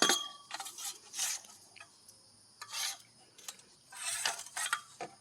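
Scraping and clinking in short bursts as a fitting is worked onto the end of a bat-house mounting pole.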